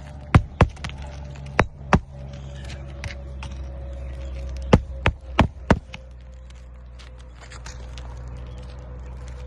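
Eight sharp knocks: two pairs in the first two seconds, then a quick run of four about five seconds in, over a steady low hum.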